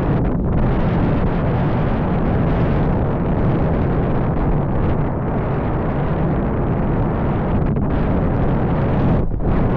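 Strong gusty wind buffeting the microphone: a loud, continuous rumbling rush that drops out briefly near the end.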